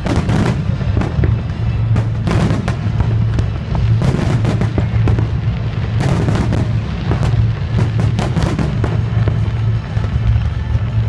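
Fireworks salute going off, many sharp bangs in irregular quick clusters, over loud music with a heavy low bass.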